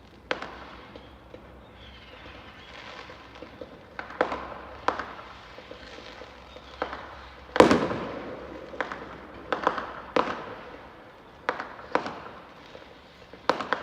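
Fireworks going off: about a dozen separate sharp bangs at uneven intervals, the loudest a little past halfway with a trailing echo, and faint crackling in between.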